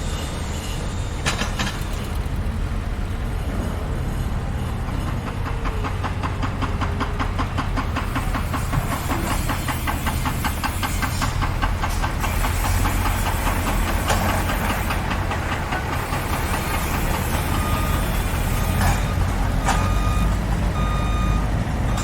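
A heavy diesel engine of a truck or construction machine running steadily, with a fast rattling clatter through the middle. Near the end a reversing alarm beeps in short, evenly spaced pulses.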